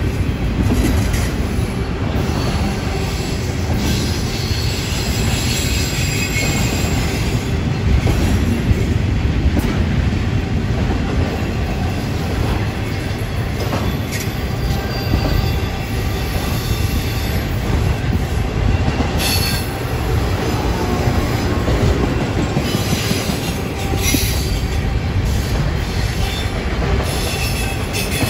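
Double-stack intermodal container train's well cars rumbling past steadily: a loud, continuous roll of steel wheels on rail, with faint high-pitched wheel squeals now and then and a few sharp clicks.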